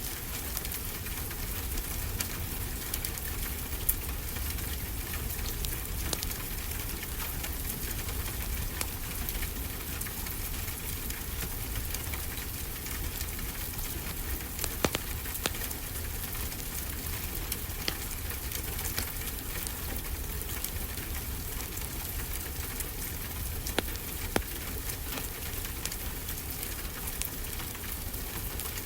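Steady rain pattering, mixed with a wood fire crackling, with a sharp pop every few seconds.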